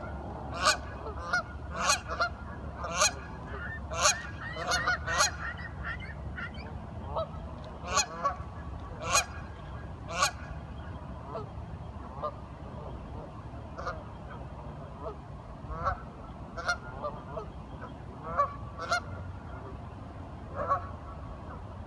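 Waterfowl calling, a flock of ducks or geese: repeated short calls, about one a second and overlapping for the first ten seconds, then fewer and more spread out, over a steady low background hum.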